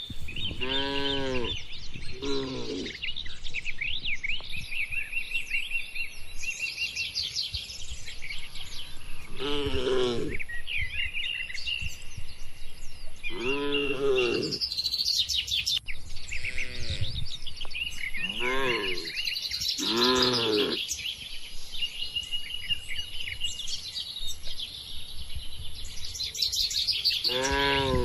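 Small birds chirping and twittering throughout, with about eight short, pitched animal calls that rise and fall in pitch, and a steady high whine from about four seconds in.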